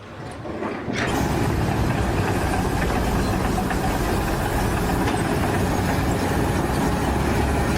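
An engine running steadily with a heavy low rumble; the sound swells in over the first second, then holds even.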